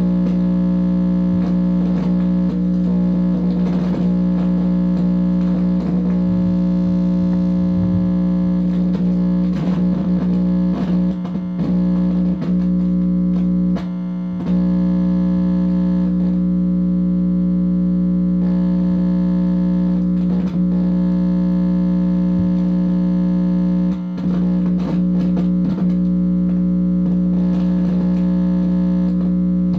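Loud, steady electrical hum through a distorted amplifier, with buzzing overtones and quick warbling pitch sweeps, briefly dropping out a few times. The recordist takes it for a directed-energy attack picked up by the microwave receiver.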